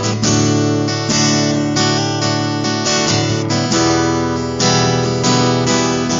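Acoustic guitar strummed steadily in chords, about two strums a second, in an instrumental stretch of a song with no singing.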